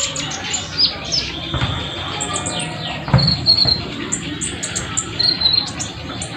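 Sunbird singing rapidly: a run of short, high, thin chirps and buzzy trills, repeated throughout. A couple of dull knocks sound about one and a half and three seconds in.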